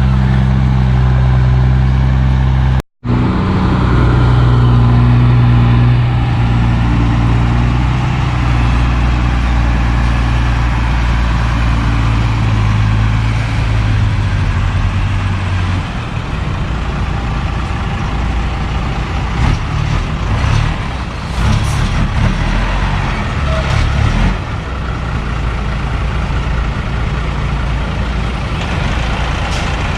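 Heavy diesel engines of an excavator and a dump truck running: a steady, loud drone that drops out for an instant about three seconds in. It turns rougher and uneven after about sixteen seconds.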